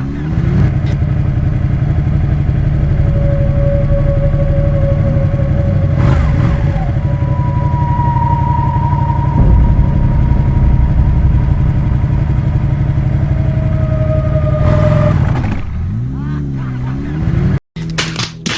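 Sport motorcycle engine running at a steady pace under way, with the revs falling and climbing again at the start and about three-quarters of the way through. Steady higher whines come and go over the engine note, and the sound cuts out abruptly for a moment near the end.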